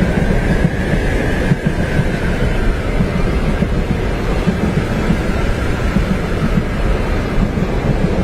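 Steady rumble of a train running on its tracks, heard from inside a passenger compartment, with a faint whine above it that drifts slightly in pitch.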